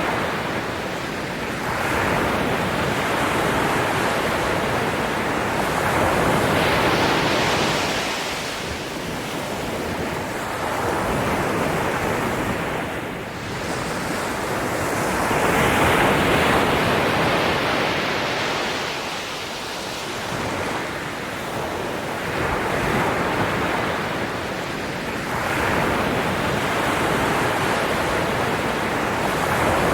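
Ocean waves breaking and washing on the shore, the surf swelling and ebbing every few seconds.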